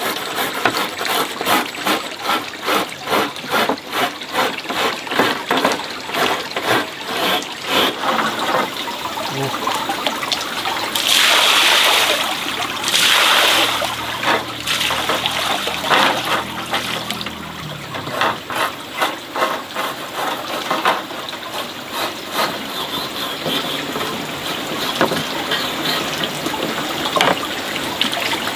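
Water running and splashing, with quick repeated splashes for the first several seconds and two loud surges of pouring water a little before the middle.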